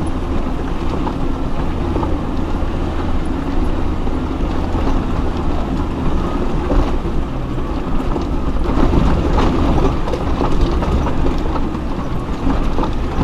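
Off-road vehicle crawling over a rough, rocky track: a steady low engine and drivetrain rumble with constant rattling and clattering from the body and suspension, busier about nine seconds in.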